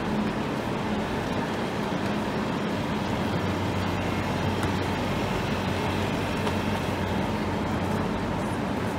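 Steady hum of a stationary Thalys high-speed train standing at the platform, its onboard equipment running, under the general noise of a busy train shed.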